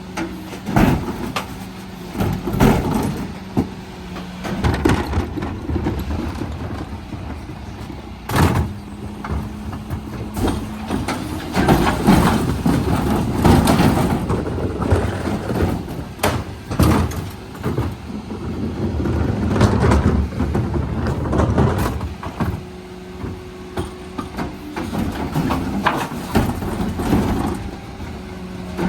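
Mercedes-Benz Econic refuse truck at work emptying bins: a steady droning tone runs under repeated knocks and bangs, with a louder stretch of rumbling and clatter in the middle.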